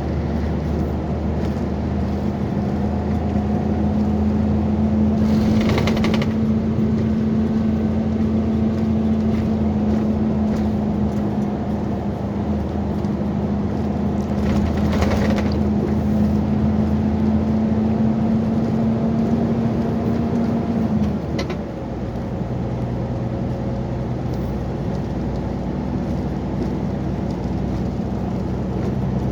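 Volvo excavator's diesel engine running steadily at high revs, with two short noisy bursts about six and fifteen seconds in. About twenty-one seconds in, the engine note drops to a lower, steady pitch as the revs come down.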